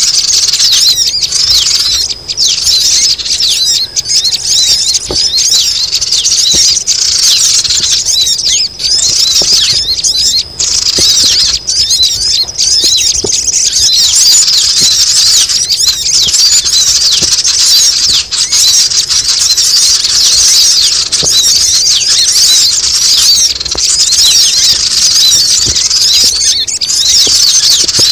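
A dense, continuous chorus of many small birds chattering and squeaking at high pitch, overlapping without a break: a noisy sogon bird-lure recording, played to call shy birds down.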